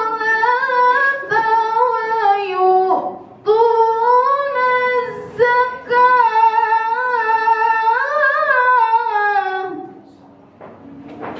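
A woman's voice reciting the Quran in melodic tilawah style, holding long drawn-out phrases with ornamented turns. There is a short breath pause about three seconds in, and the voice fades out about ten seconds in.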